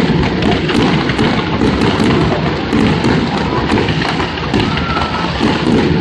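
Dense fireworks barrage: a continuous rumble of shell bursts with many sharp crackles over it, going on without a break.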